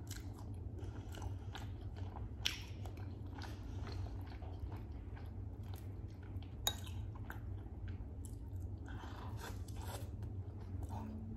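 Close-miked chewing and biting of food, with many small wet clicks and crunches and two sharper clicks, about two and a half seconds and about six and a half seconds in, over a steady low hum.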